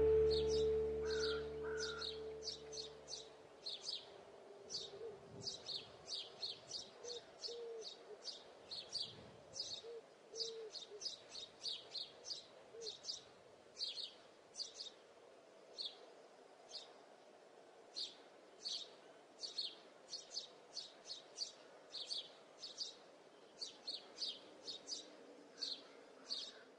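Music fading out over the first few seconds, then a bird chirping over and over: short, high chirps about once or twice a second, with a few soft, lower calls in between.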